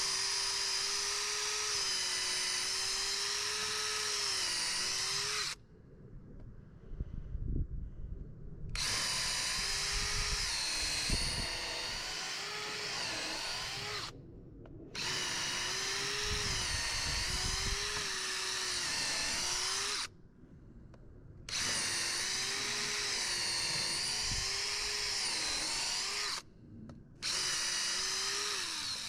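Electric power drill running in bursts of about five seconds, four short stops in between; its pitch dips and wavers as the bit bites under load. Low thuds come around the first pause.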